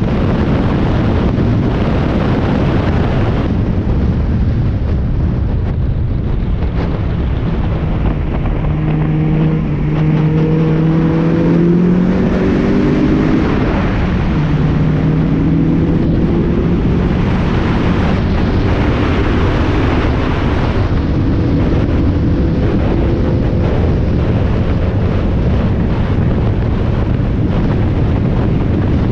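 Spec Miata race car's four-cylinder engine at full throttle on track, heard onboard under heavy wind buffeting on the microphone; the engine note climbs in pitch through the gears for several seconds about a third of the way in.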